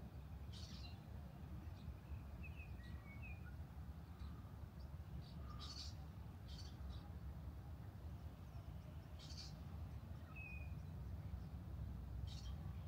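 Small birds chirping faintly, with short high chirps at irregular intervals and a few brief whistled notes, over a low steady background rumble.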